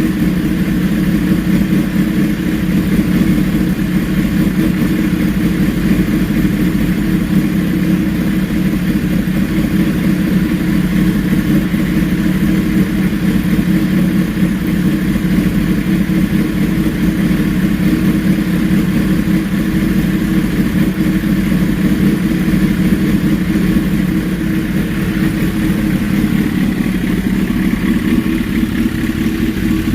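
Tuned 2005 Suzuki GSX-R1000's inline-four engine idling steadily.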